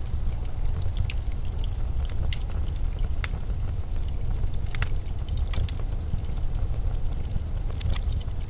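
Blizzard wind with a steady low rumble, and scattered short sharp crackles and ticks throughout.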